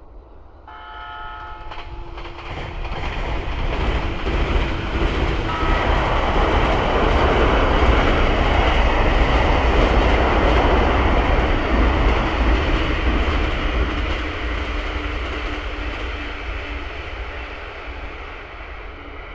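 JR East E235 series 1000 electric train passing over a railway bridge: its wheels and running gear build to a loud rumble around the middle and fade away near the end. A short horn blast sounds about a second in.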